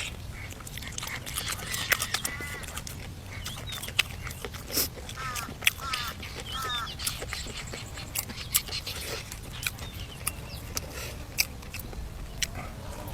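Eating sounds: sharp clicks and crunches of chewing, with birds calling in short runs of quick repeated notes several times in the background.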